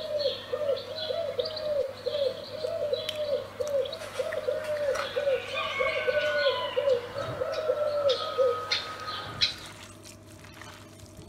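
Birds calling: a low cooing call repeated quickly, about three times a second, under higher chirping and twittering. The cooing stops about two seconds before the end, leaving a few soft clicks.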